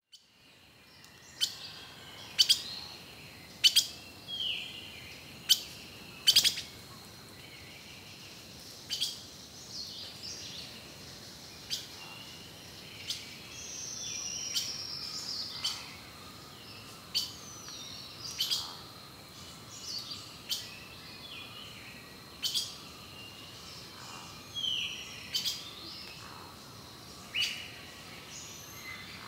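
Forest birds chirping: short, sharp chips and brief calls come irregularly about once a second, with a few longer falling whistles near the middle, over a faint steady high tone.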